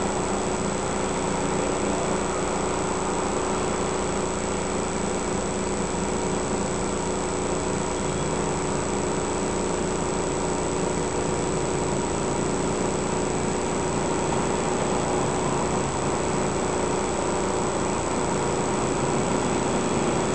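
A car engine running steadily at an unchanging pitch, with a constant noise under it, growing a little louder near the end.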